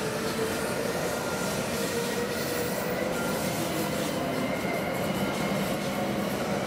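W7 series Shinkansen train pulling out of the station, a steady rumble of the cars rolling away with faint thin whining tones over it.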